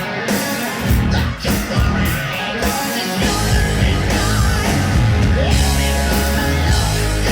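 Live hard rock band playing loud: distorted electric guitars, bass guitar and drum kit, with the kick drum and heavy bass notes clipping and distorting in the recording. The low bass notes thicken and hold from about three seconds in.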